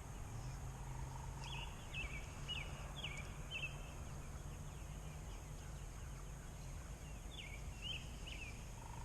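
Cornish Cross meat chickens peeping: short, high, falling peeps in a quick run about a second and a half in, and a few more near the end, over a low steady hum.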